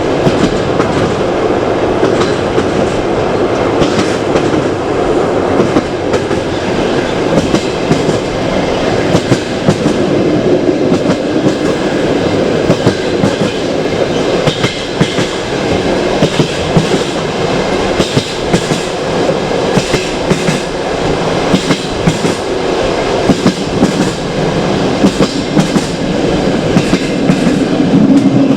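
Passenger train running along the line, its coach wheels clicking over the rail joints above a steady rumble.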